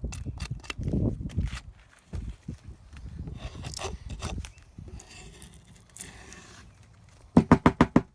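Wooden beehive frames being handled, with scattered clicks and knocks and a low rumble of wind on the microphone. Near the end comes a short, loud run of about six quick pitched pulses.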